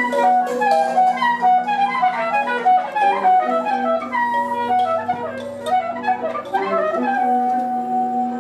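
Improvised music: a wind instrument playing rapid, continuous runs of short notes leaping up and down, over a steady low held drone.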